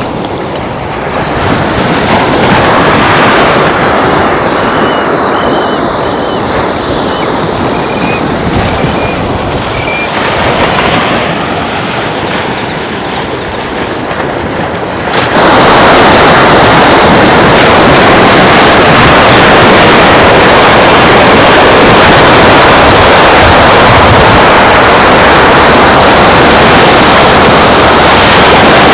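Ocean waves breaking and washing up on a beach, with a few faint high chirps in the first half. About halfway through, a sudden loud, steady rush of noise takes over and drowns out the surf.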